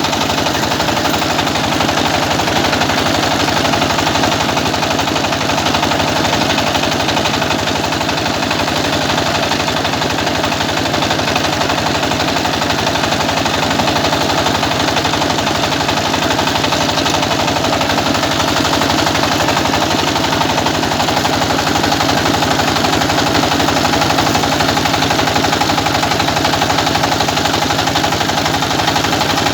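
Small rice milling machine running steadily: a loud, even mechanical noise with a rapid, regular beat that does not change.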